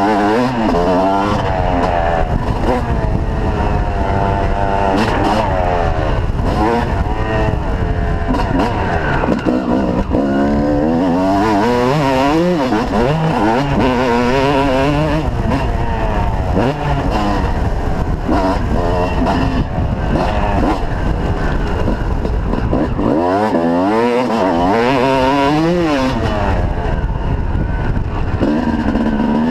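Motocross bike engine revving hard, its pitch rising and falling again and again as it accelerates and shifts around the track.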